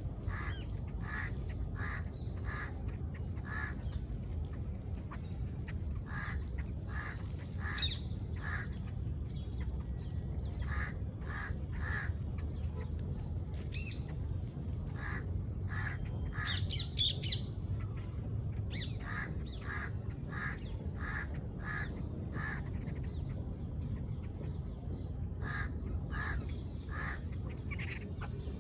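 Birds giving short repeated calls, often in runs of several at about two a second, over a steady low background rumble.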